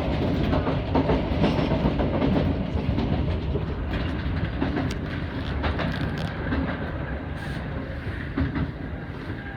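Tobu Urban Park Line electric train running, heard from inside the front car: a steady low rumble of wheels on rail with scattered clicks from the track, getting quieter in the second half.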